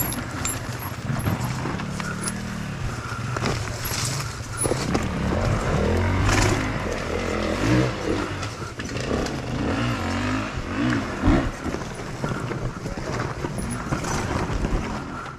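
Enduro dirt bike engine revving up and dropping back again and again as it is ridden hard off-road, with a few sharp knocks from the bike.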